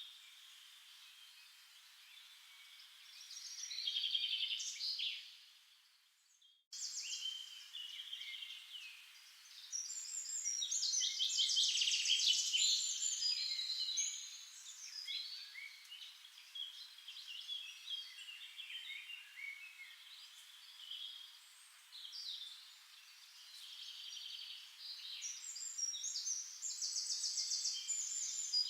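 Songbirds singing: many overlapping high chirps and rapid trills, the loudest trills about ten to thirteen seconds in, with a brief total break about six seconds in.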